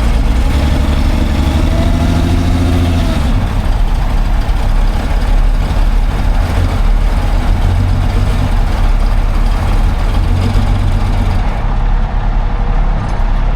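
A car or truck engine running loudly with a strong low note. Its sound changes about three seconds in and then holds steady.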